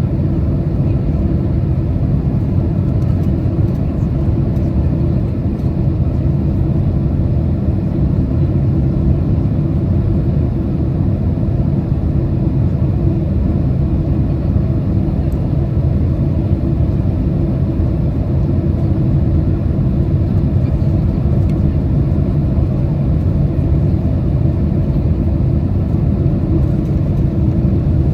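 Steady low rumble of cabin noise inside a Boeing 767 airliner on approach, the engine and airflow noise heard through the fuselage.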